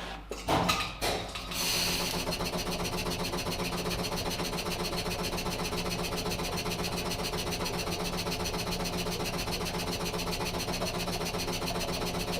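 Valtra tractor's diesel engine starting, with a few uneven strokes before it catches about a second and a half in, then idling steadily with an even, rapid pulse.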